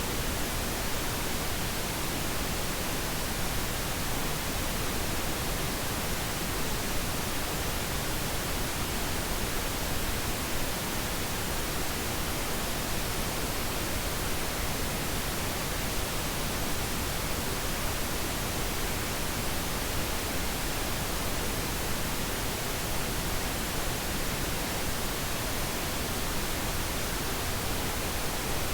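Pink noise: a steady, even hiss across the whole range, unchanging throughout, played as a sleep aid for a baby.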